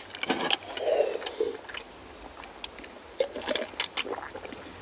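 Soft eating sounds: scattered light clicks and scrapes with chewing.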